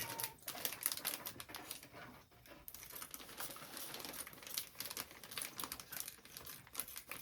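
Plastic cat-food packaging crinkling and crackling as it is handled, a quick irregular run of crackles.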